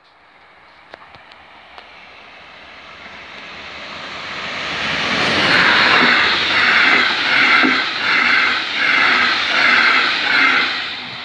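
Double-deck passenger train passing at speed: the rush of wheels on rail builds up as it approaches, then beats regularly, about every three quarters of a second, as the coaches go by.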